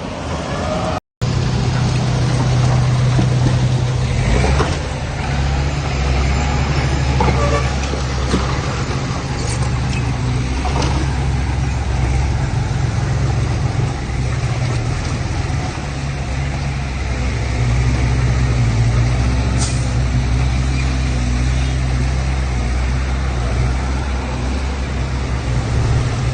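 Heavy diesel engines of landfill trucks and earthmoving machinery running steadily with a deep, even note, with a few brief sharp sounds scattered through.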